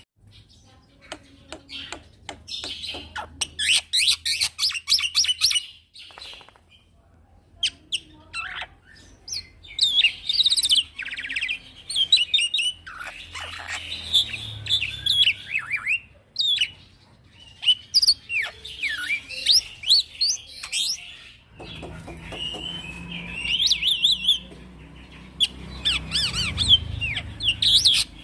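Young male black-winged myna (jalak putih) singing at length: a varied run of harsh chirps, rapid rattling trills and whistles, broken by a few short pauses.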